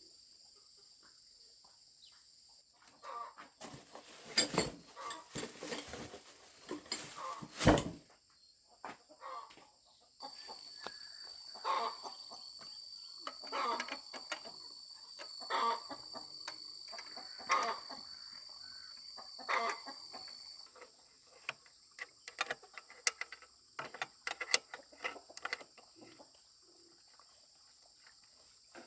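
Chickens clucking in short calls about every two seconds over a steady high chirring of insects. Sharp knocks and clatter come a few seconds in, and scattered clicks come near the end.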